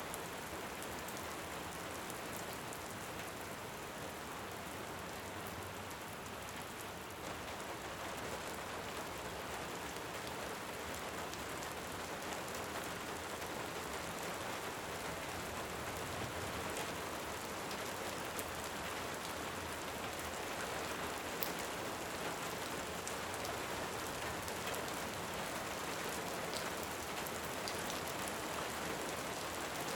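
Steady rain falling, a dense even hiss, with sharp crackles of a wood fire scattered through it; it grows slightly louder over the second half.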